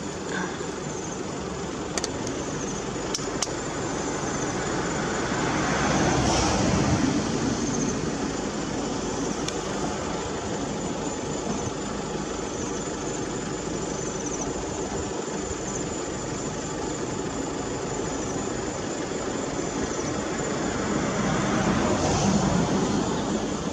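Vehicle engine running with road noise, heard from inside the pickup's cab, swelling louder about six seconds in and again near the end.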